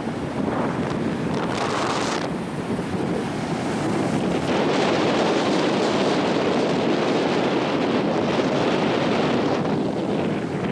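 Strong coastal wind buffeting the microphone in a loud, steady rush, with the wash of surf beneath it; the wind gets a little louder about halfway through.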